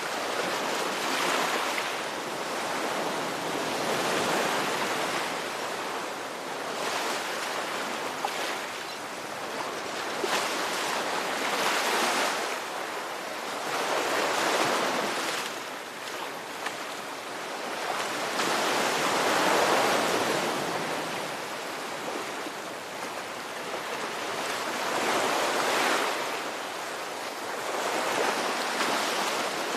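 Ocean waves breaking and washing on the shore, a continuous surf hiss that swells and eases every few seconds.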